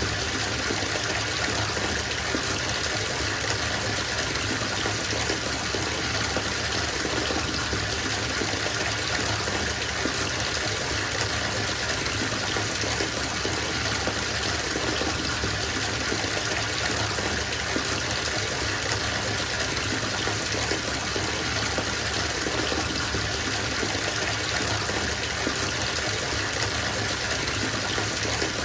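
Bathtub filling from the tap: a steady gush of water pouring into the tub, unchanging throughout.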